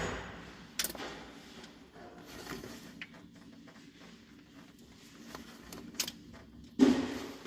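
Metal hand tools working at the engine's valve gear during a valve lash check: a few sharp clicks, then a louder metallic knock near the end.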